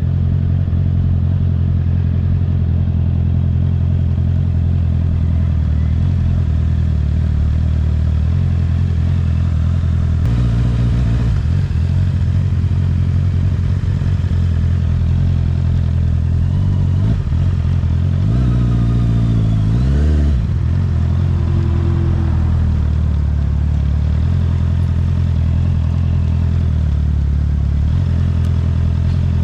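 Honda CBR650R inline-four with an Akrapovic exhaust, heard from the bike while riding. It holds mostly steady revs, with a shift in the engine note about ten seconds in and a dip and climb in revs about two-thirds of the way through.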